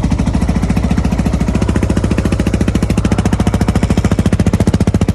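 Yamaha Raptor 660R's single-cylinder four-stroke engine running steadily through a Lexx exhaust with its core removed: a loud, even, rapid beat of exhaust pulses.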